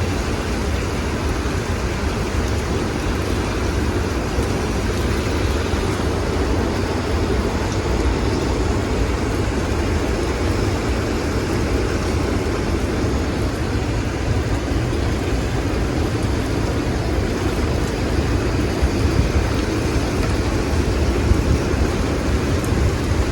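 Strong winter-storm wind blowing steadily: a dense, even rush heaviest in the low end, swelling a little near the end.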